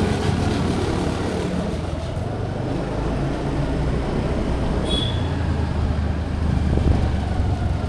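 Steady vehicle and road noise with a low engine rumble. A brief high beep sounds about five seconds in.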